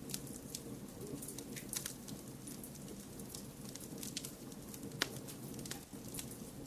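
Wood fire crackling with frequent small sharp pops over a steady low rumble of noise; one louder pop about five seconds in.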